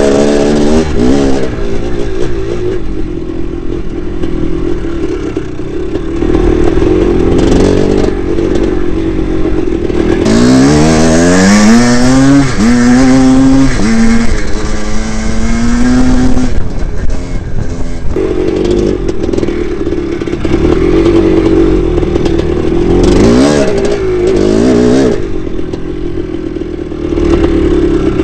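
1982 Maico 490's two-stroke single-cylinder engine being ridden off-road. It runs at uneven, part-throttle revs, then midway pulls hard through several gears, its pitch rising and dropping at each shift, before easing off again.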